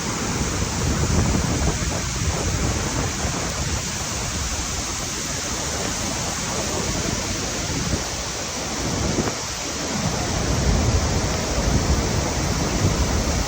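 The Iguaçu Falls' water crashing down, a steady, loud rush of falling water.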